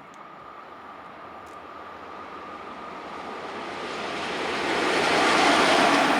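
A vehicle passing by: a rushing noise that grows steadily louder, peaks near the end, then begins to fade, with a faint steady whine underneath.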